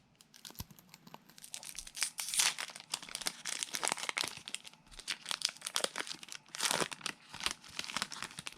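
Foil booster pack being torn open and crinkled in the hands, irregular crackling and tearing with louder bursts about two seconds in and near the end.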